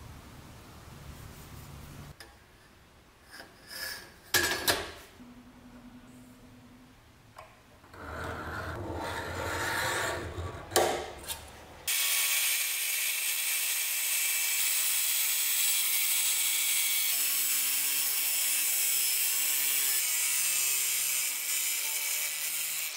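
Workshop handling sounds from restoring a bread cutter: a few sharp knocks of metal or wood parts, then a stretch of rubbing with two clicks. About halfway in, steady background music takes over.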